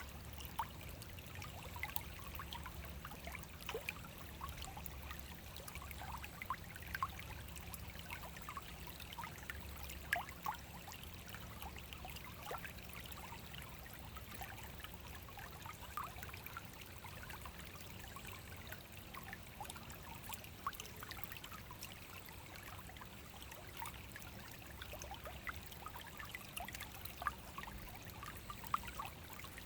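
A small forest brook flowing steadily over stones, with continuous trickling and many small bubbling splashes.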